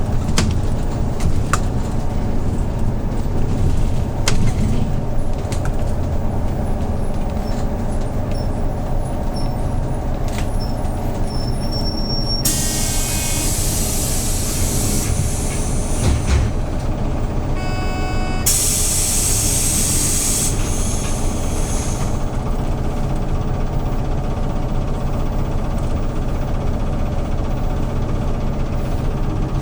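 A Hyundai New Super Aero City CNG city bus engine running steadily. About 12 seconds in and again about 18 seconds in, there is a loud hiss of compressed air released from the bus's pneumatic system, each with a short electronic beep.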